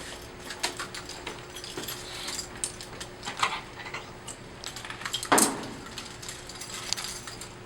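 Metal handcuffs clicking and clinking as they are worked on a person's wrists, with a louder rattle about five seconds in.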